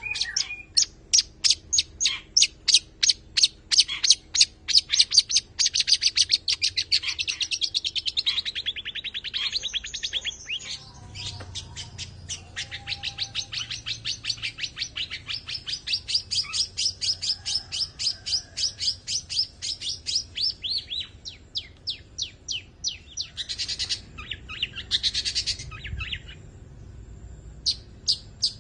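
Long-tailed shrike (cendet) singing a long, fast series of sharp, high chirps that quickens into a dense trill, followed by a harsher burst of notes near the end.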